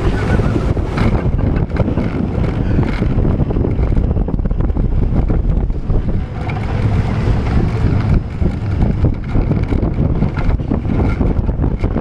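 Seven Dwarfs Mine Train roller coaster running along its track, a steady heavy rumble with rattling clicks, and wind buffeting the microphone.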